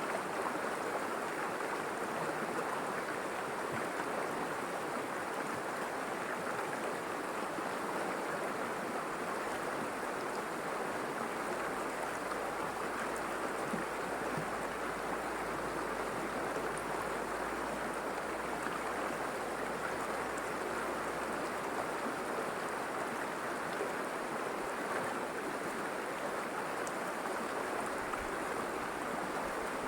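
River water flowing and rushing over rocks, a steady even burble.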